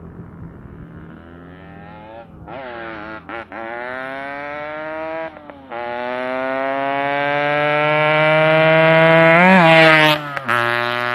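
Yamaha RX-King's single-cylinder two-stroke engine revving: its pitch climbs in short runs that break off, then in one long climb to a peak about ten seconds in before it drops back. The owner calls the bike unwell, 'coughing'.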